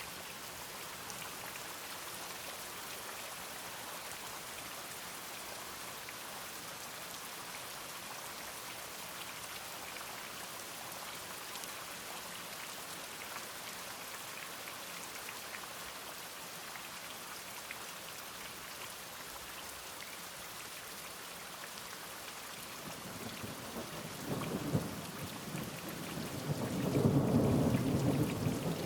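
Steady rain falling. A low roll of thunder builds in the last few seconds and is loudest near the end.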